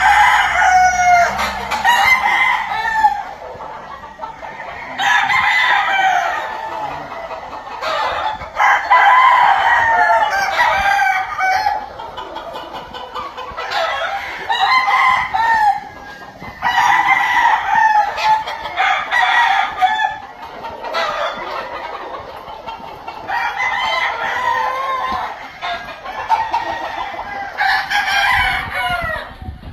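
Several gamefowl stags (young roosters) crowing one after another, their crows overlapping, in about seven bouts a few seconds apart.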